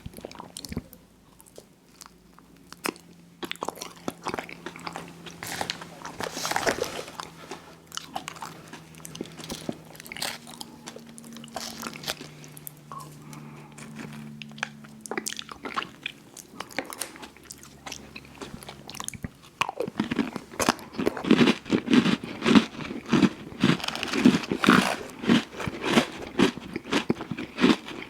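Close-miked eating of ice cream sandwiches: scattered bites and wet mouth sounds at first, then from about twenty seconds in, steady, rapid and louder chewing.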